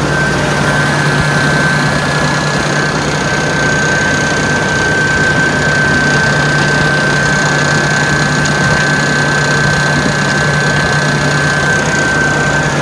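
Engine running steadily through its newly fitted exhaust, a constant low drone with a thin steady whine above it.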